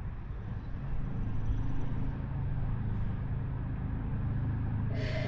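An engine idling steadily, a low hum. A short noisy sound comes near the end.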